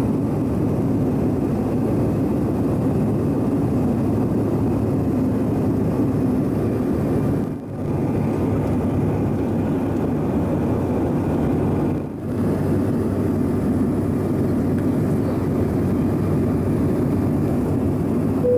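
Steady jet cabin noise inside a Bombardier CRJ-900 airliner, a deep even rush with a faint steady hum from its rear-mounted turbofans. The sound drops out briefly twice, about a third and two thirds of the way through.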